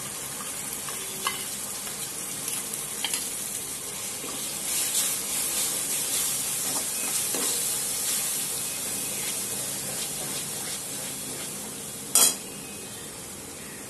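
Spiced yogurt sizzling steadily in hot oil with fried onions in a kadai while a steel spoon stirs and scrapes through it, with small clinks of spoon on pan. One sharp metallic clank stands out about twelve seconds in.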